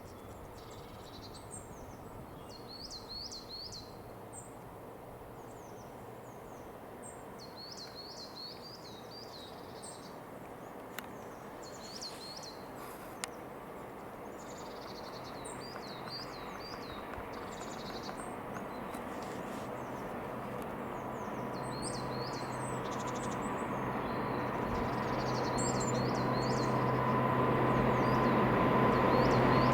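A songbird sings in short repeated phrases while the rumble of an approaching train grows steadily louder through the second half, with a steady engine hum joining about two-thirds of the way in.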